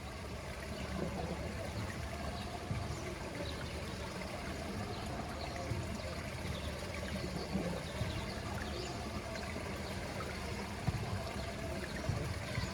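Steady trickling and lapping of pool water, with many small scattered drips and splashes.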